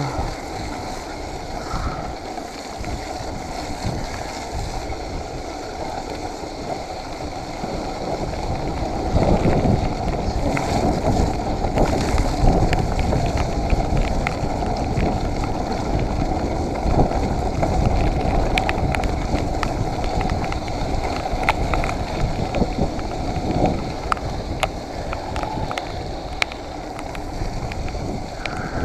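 Mountain bike ridden along a wet, muddy trail: a steady rush of wind on the microphone and tyres through mud and water, with scattered rattles and knocks from the bike over rough ground, getting louder about a third of the way in.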